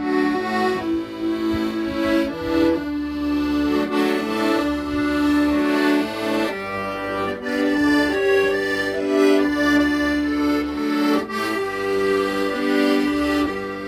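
Accordion playing a slow ballad melody in long held notes over low bass notes.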